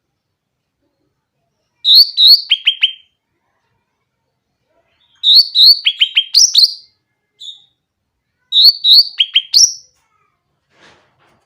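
Sooty-headed bulbul (cucak ranting) singing three short phrases of quick whistled notes, a few seconds apart, each ending in a run of rapid falling notes. A single short note comes between the second and third phrases.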